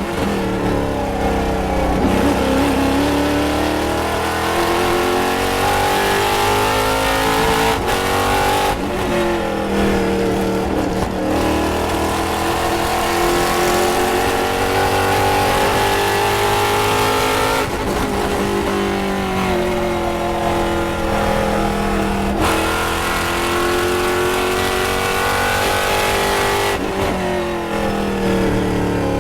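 Race car engine running hard on track, its pitch repeatedly climbing and falling with brief breaks in the sound as it shifts gear.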